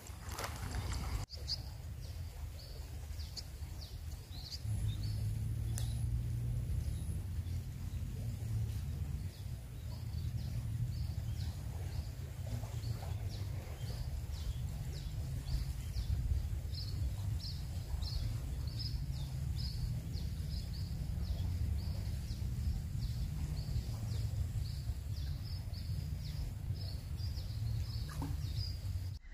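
A small bird calling over and over in short, high chirps, about two a second, over a low steady rumble that grows stronger about five seconds in.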